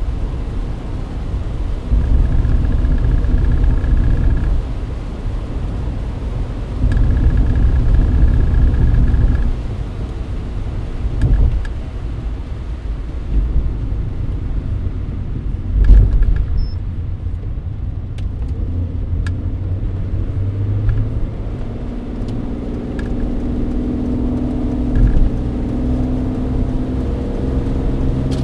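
Mercedes-Benz W124 driving, heard from inside the cabin: a steady low rumble of engine and tyres on a wet road, with a few louder surges early on and a couple of sharp knocks. In the last third the engine note climbs as the car accelerates.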